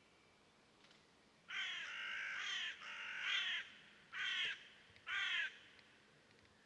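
A bird calling: a run of rasping calls lasting about two seconds, then two short calls about a second apart.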